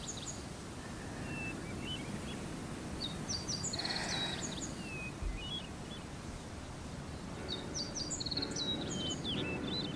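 A songbird sings the same short phrase of quick chirps and a trill twice, about three and about seven and a half seconds in. Under it runs a steady outdoor background noise.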